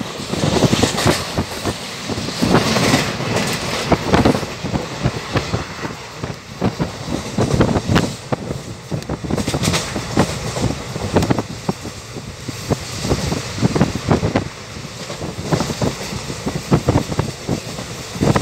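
Passenger train running at speed without stopping, heard from an open carriage window: steady running noise with the wheels clacking irregularly over rail joints and points.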